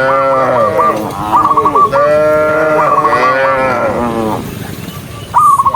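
Several cattle mooing in long, overlapping calls, one after another, which die away about four seconds in.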